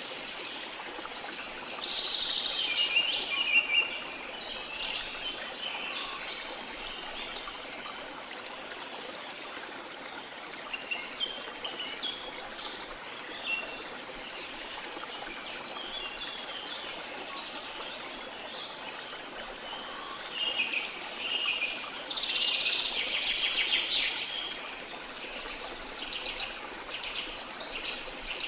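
A waterfall's steady rush of falling water, with birds singing over it in several bouts of chirps and trills. The loudest bouts come a couple of seconds in and again about three-quarters of the way through.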